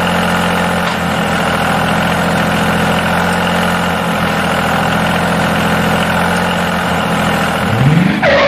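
Small engine running steadily. Near the end its pitch rises briefly as it revs, and then the sound cuts off suddenly.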